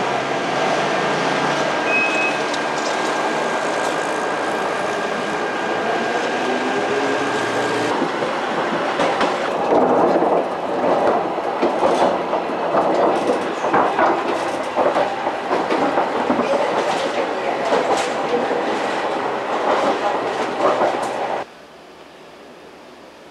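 Rail vehicle running on the track: a steady rumble with a thin whine at first, then louder, uneven wheel-on-rail clatter with many short clicks over the joints. The sound cuts off abruptly near the end.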